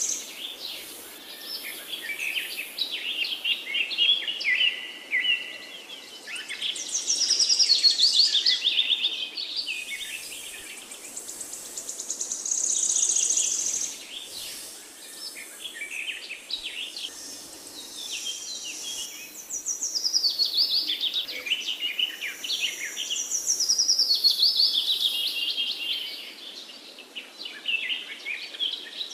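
Songbirds singing: phrases of rapid chirps that drop in pitch, each a few seconds long and coming again every few seconds, with a few steady high trills between them.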